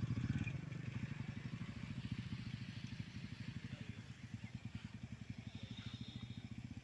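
TVS Ronin motorcycle's single-cylinder engine idling steadily, with a rapid, even run of firing pulses that grows slightly quieter towards the end.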